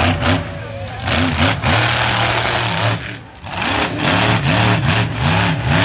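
Monster truck engine revving hard, its pitch swinging up and down again and again, with a short lull a little over three seconds in.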